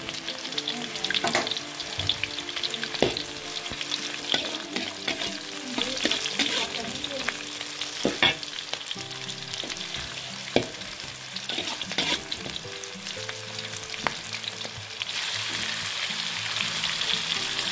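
Sliced shallots sizzling in hot oil in a wok, with the spatula knocking and scraping against the pan as they are stirred. Near the end the sizzle gets louder and thicker as the ground spice paste goes into the oil.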